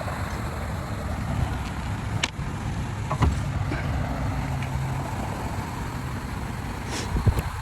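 A car's engine running steadily with a low hum, with a few short clicks and knocks.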